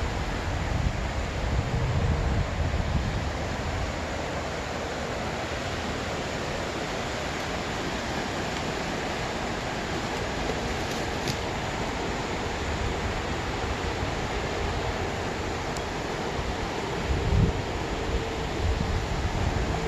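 Wind blowing across the microphone outdoors, a steady rushing hiss with heavier low buffeting gusts near the start and again near the end.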